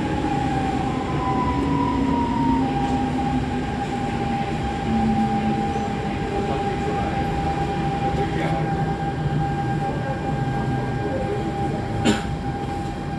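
SMRT C651 metro train running, heard from inside the carriage: steady rumble of wheels and track with a steady whine from the electric traction equipment and lower motor tones that slide down in pitch. A single sharp knock about twelve seconds in.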